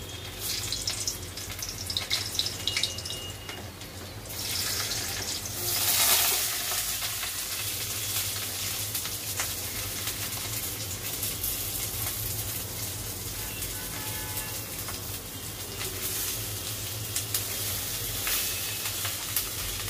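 Hot oil sizzling in a kadhai on a gas stove. The sizzle swells about five seconds in, then settles into a steady frying hiss, with a few light clicks of ingredients dropping into the pan near the start and again near the end.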